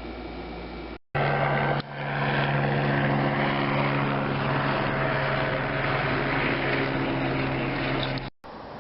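Loud steady engine drone, a low hum with rushing noise over it. It starts abruptly after a short gap about a second in and cuts off suddenly near the end.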